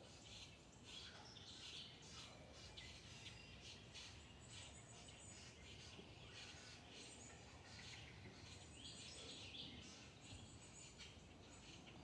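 Faint, busy chirping of small birds in the background over a low steady outdoor rumble.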